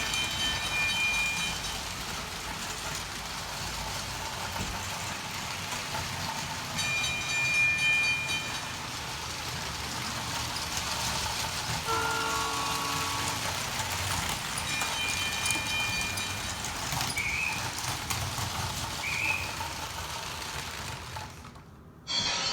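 Lego toy train running with a steady rumble, its horn sounding four times in short blasts of a second or so. Near the end the running noise fades away.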